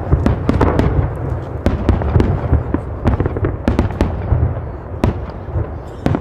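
Fireworks going off: a rapid run of sharp bangs and crackles, several a second, over a continuous low rumble, thinning a little near the end.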